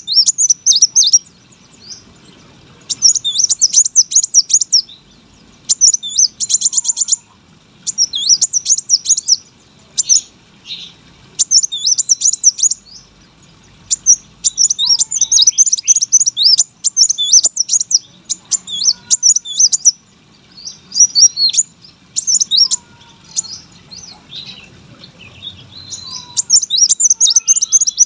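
Kolibri wulung sunbird singing energetically: loud phrases of rapid, high twittering notes, each a second or two long, with short pauses between, and a buzzy trill about six seconds in.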